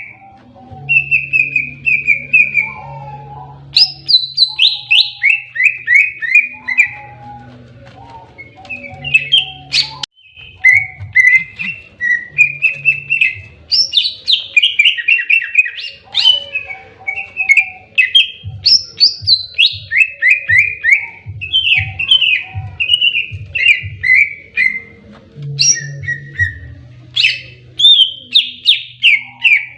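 Cucak ijo (green leafbird) singing its aggressive 'fighting' (tarung) song: loud runs of quick, falling whistled notes, repeated again and again with short pauses between runs.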